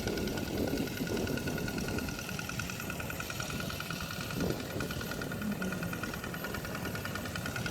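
Small engine of a walk-behind hand tractor running steadily, with a fast, even pulse.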